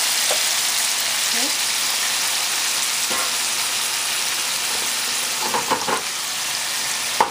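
Chicken pieces sizzling in hot oil in a frying pan, a steady hiss. A few short knocks come about five to six seconds in, and one more just at the end, as the pan is lifted and shaken on the gas burner.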